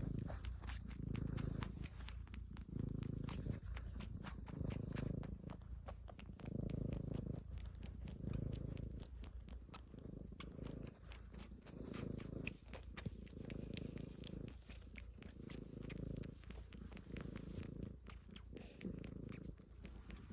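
Domestic cat purring, the purr swelling and fading with each breath about every one and a half to two seconds. Light, rapid clicking sounds run over it, fitting the cat's suckling ('chupa').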